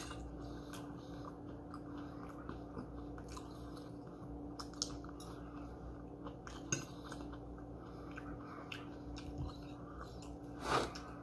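A person chewing a mouthful of food, with scattered light clicks of a metal fork against a plate and a faint steady hum underneath. There is one louder, longer noise near the end.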